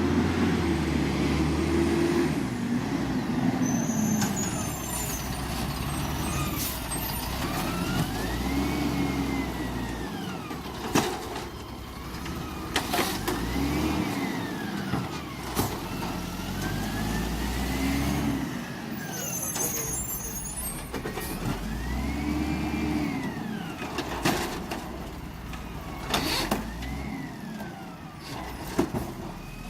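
Garbage truck engine revving up and back down over and over, with sharp metal bangs and brief high squeaks in between.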